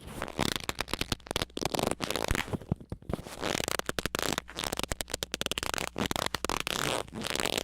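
Dense, irregular crackling: rapid clicks and rustles, with no clear pitch.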